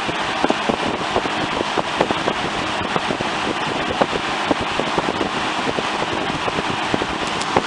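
1971 Windsor P23 box fan running steadily on high, a cold-started motor pushing a loud, even rush of air, with occasional light clicks.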